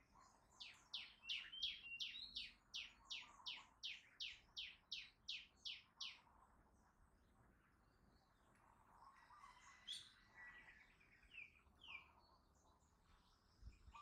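A songbird singing a fast run of sharp down-slurred notes, about three a second, for around five seconds, then a few softer scattered chirps. Fainter calls of other birds sound in the background.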